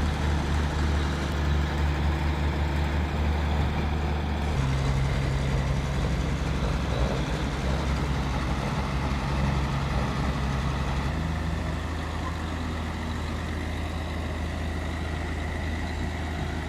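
Heavy diesel engine running steadily, its pitch changing twice, about four and a half and eleven seconds in.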